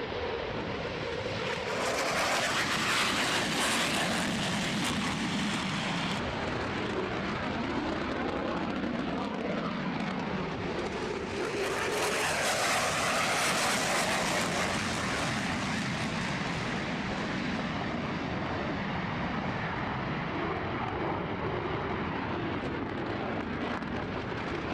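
Jet aircraft engine noise, a steady dense rush with slowly shifting pitch, swelling louder twice, a couple of seconds in and again about halfway, as aircraft pass.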